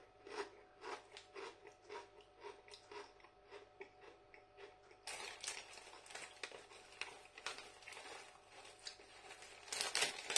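A Walkers BBQ Pork Ribs potato crisp being chewed with the mouth close to the microphone: crunches about twice a second that grow fainter as the crisp is chewed down, then irregular softer chewing.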